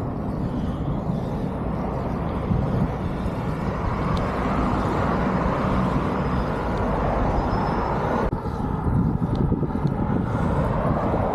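Road traffic passing alongside a moving bicycle, with wind rumbling on the microphone. A vehicle swells past in the middle.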